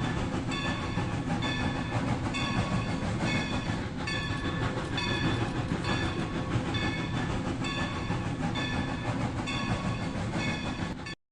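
Battery-powered Rail King toy train running: a steady rumble of its motor and wheels, with a repeating pattern of high electronic tones about once a second. It cuts off abruptly just before the end.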